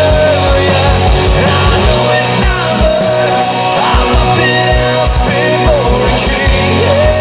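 Live rock band playing loudly: a kick drum beating steadily under distorted guitars, with a long held melodic line that bends in pitch now and then.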